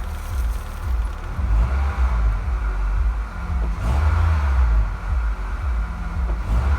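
Honda K20A inline-four engine running and being revved a few times, with no knock when the throttle is released: the rod knock is gone after new connecting-rod bearings.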